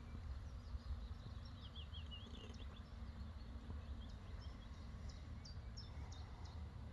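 Small birds chirping faintly in short high notes, with a brief warbling run about two and a half seconds in, over a steady low rumble.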